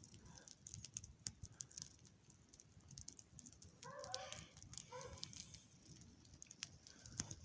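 A scent hound giving tongue faintly in the distance while running a hare: two short bays about four and five seconds in, over faint scattered clicking.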